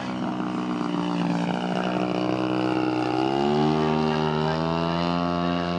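Engine and propeller of a large RC Super Decathlon model airplane running steadily. Its pitch rises a step a little past halfway, as with the throttle opening, and it grows louder.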